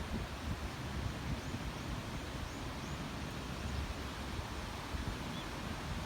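Wind buffeting the microphone over a steady outdoor rushing noise, with a few faint, short high chirps.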